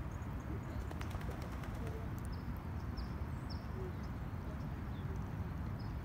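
Small birds giving a handful of short, high chirps, each falling in pitch, over a steady low rumble of distant city traffic.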